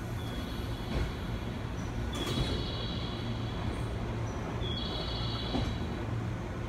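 Train running on rails with a steady low rumble. A high-pitched squeal rises over it twice, from about two seconds in and again near five seconds.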